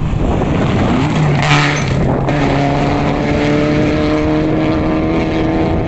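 Rally car engine at high revs, its pitch rising about a second in, then stepping up and holding nearly steady at full throttle, over a rough noisy rush.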